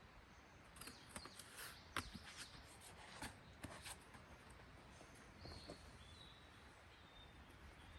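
Faint outdoor quiet with a cluster of light clicks and knocks for a few seconds, the sharpest about two seconds in, and short faint bird chirps in the second half.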